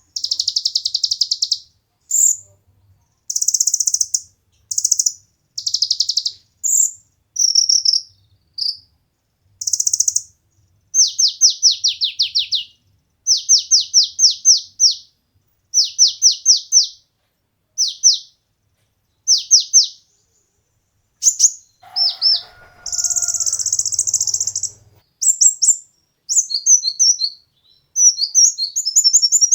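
Kolibri ninja (konin) sunbird singing: high, thin chirps and buzzy notes, with quick runs of short downward-sweeping notes, in short phrases broken by brief pauses.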